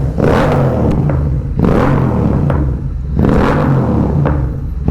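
Royal Enfield Continental GT 650's parallel-twin engine, through an aftermarket megaphone exhaust, revved up and let fall three times, with pops and crackles from the exhaust as the revs drop.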